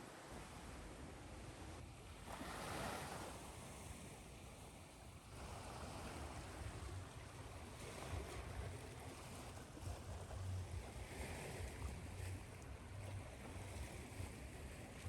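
Ocean surf washing in over a steady white-noise hiss, with a wave surging about two seconds in and a low rumble of surf from about five seconds on.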